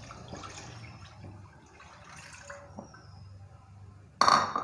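Milk being poured into a cooking pan, a steady liquid pouring sound, then a short loud clank about four seconds in.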